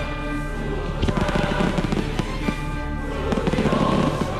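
Aerial firework shells bursting, with dense rapid crackling starting about a second in and again near the end, over music playing.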